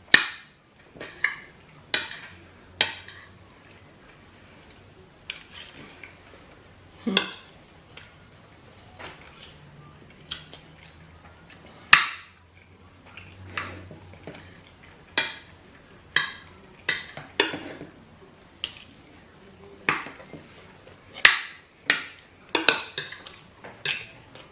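Spoons clinking and scraping against plates as rice and stew are eaten, in scattered sharp clinks about a second or so apart.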